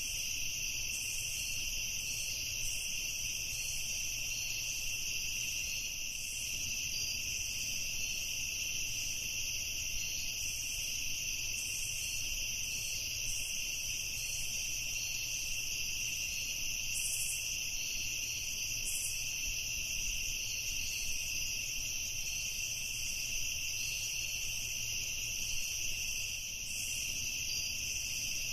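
Steady evening chorus of crickets trilling without a break, with a high, shimmering edge of many insects calling at once.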